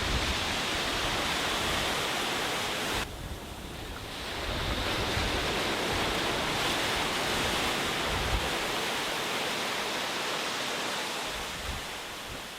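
Sea waves washing onto a beach in a steady hiss. The hiss drops away suddenly about three seconds in and swells back over the next second or two. Wind rumbles on the microphone underneath.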